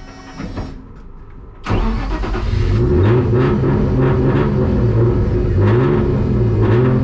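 Turbocharged BMW M50B20 straight-six in a Nissan 180SX, heard from inside the car: after a quieter first couple of seconds the engine comes in loudly and revs up and down several times.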